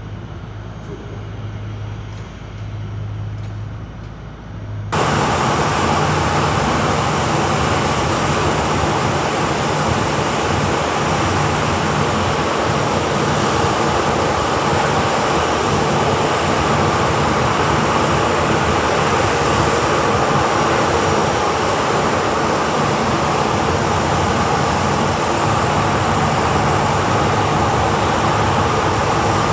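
Jet engines of a Boeing 737-8 (CFM LEAP-1B turbofans) running loud and steady, as at takeoff thrust. The noise comes in abruptly about five seconds in, after a quieter low hum.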